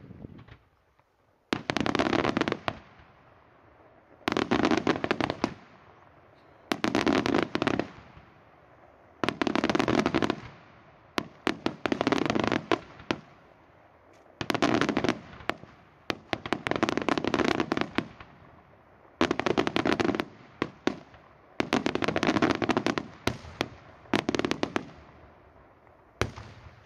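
Daytime aerial fireworks: a run of about ten shells, each bursting into a rapid rattle of sharp reports lasting a second or so, one volley about every two and a half seconds.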